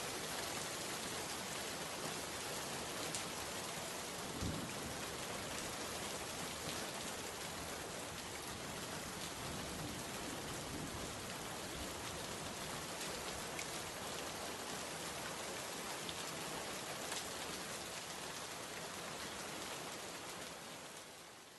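Steady rainfall pattering on a surface, an even hiss with scattered individual drop ticks, fading out near the end.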